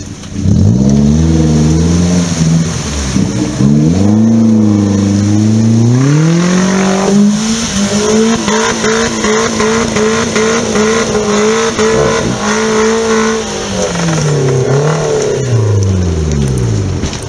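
Suzuki Jimny engine revving hard under load as it claws up out of a flooded mud rut, its wheels spinning in the mud. The revs climb over the first several seconds, hold high with a fast pulsing for about five seconds, then drop away near the end.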